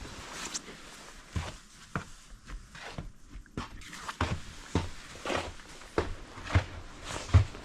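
Irregular thumps and scuffs, like a person walking about and shuffling, with brief rustles between them.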